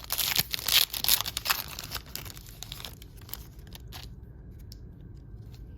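A trading card pack's wrapper crinkling and tearing as it is ripped open: dense crackling for about two seconds, then a few scattered crackles and clicks that stop about four seconds in.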